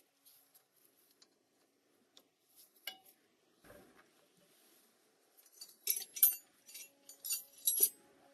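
Light metallic clinks and taps of metal tools and parts being handled. There is one ringing strike about three seconds in, and two louder clusters of sharp clinks in the second half.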